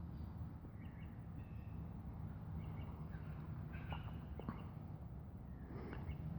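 Faint, short bird chirps called at scattered moments over a low, steady background hum.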